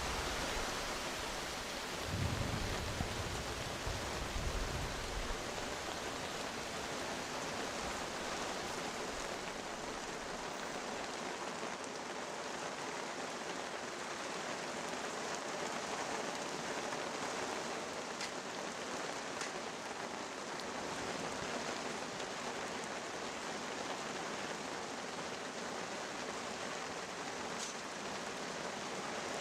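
Steady rain falling, an even hiss throughout, with a brief low rumble in the first few seconds.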